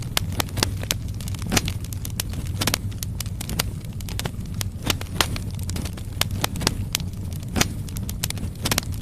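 Firewood burning in a fireplace: irregular sharp crackles and pops from the logs over a steady low rumble of the fire.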